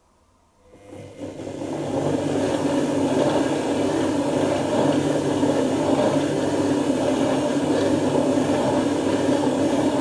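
Dyson Contrarotator CR01 washing machine running a wash tumble: the motor starts about a second in, the drums turn the wet load steadily for about nine seconds with a low motor hum under the churning, then the motor stops near the end.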